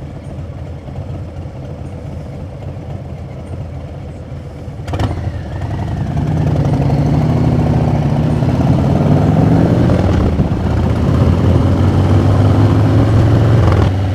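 Harley-Davidson V-twin motorcycle engine running steadily, then accelerating from about five seconds in, getting louder with its pitch rising before it holds steady at speed.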